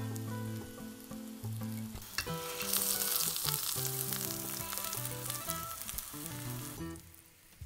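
Eggplant slices sizzling in vegetable oil in a frying pan. The sizzle swells about two seconds in and dies down near the end, over soft background music.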